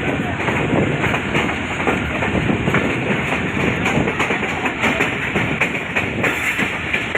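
Allama Iqbal Express passenger train running at speed, its wheels clattering steadily over the rail joints with many sharp clicks.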